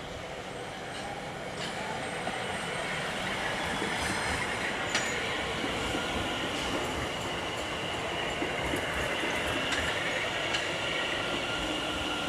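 Electric passenger train running through the station on steel rails, growing louder over the first few seconds, with a steady high wheel squeal and a few sharp clicks from the wheels on the track.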